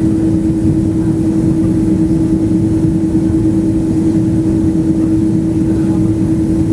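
Airliner engines droning steadily, heard from inside the passenger cabin: a loud, even low rumble with a steady hum running through it.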